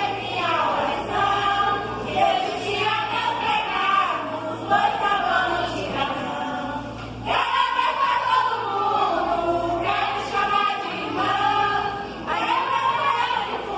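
A group of voices singing together, like a choir.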